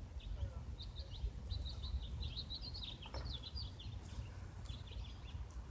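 Small birds chirping: many quick high chirps, busiest in the middle, over a steady low rumble.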